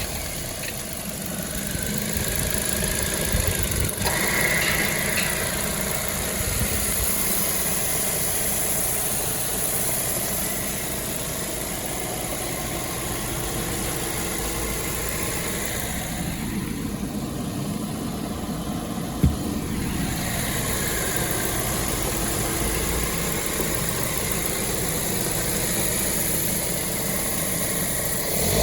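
Ford Focus 2.0 petrol four-cylinder engine (AODA) idling steadily, running smoothly with no knocking. A single sharp click comes about nineteen seconds in.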